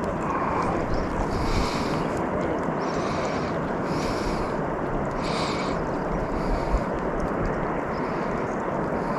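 Wind buffeting the microphone over steady rushing water, with a few short swells of hiss.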